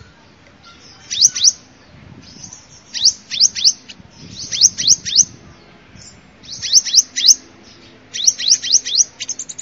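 Sunbird calling: short groups of three to five high, sharp, downslurred notes, repeated every second or so.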